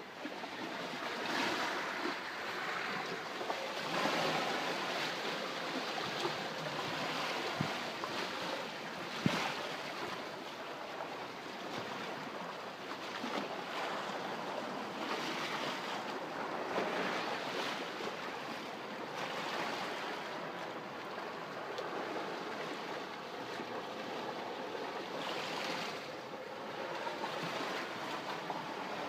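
Sea waves washing against the shore, the surf swelling and fading every few seconds, with two brief knocks about a third of the way in.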